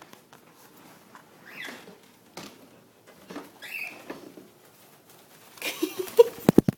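A pet cockatiel rustling faintly, then, near the end, a short loud burst of rapid wingbeats with a quick run of heavy thumps as it flies over and lands.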